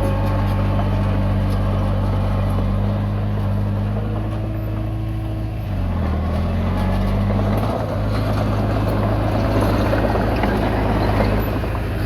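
Komatsu D20P bulldozer's diesel engine running steadily under load. About six seconds in, the engine note dips briefly and recovers, and a rougher clattering noise joins it.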